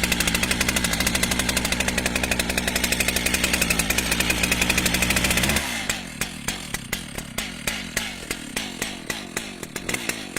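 Stihl MS880 chainsaw's big two-stroke engine warming up in the cold, running at a fast, steady speed, then dropping to a slower, uneven idle about six seconds in.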